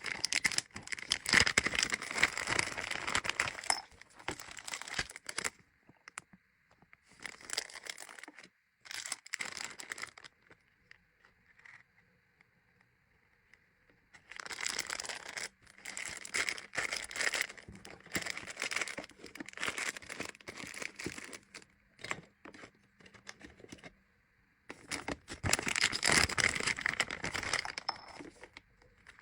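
Crinkling of packaging being handled, in several bursts with short quiet pauses between.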